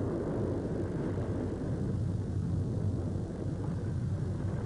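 Steady rumble of steel gondola freight cars rolling along the track.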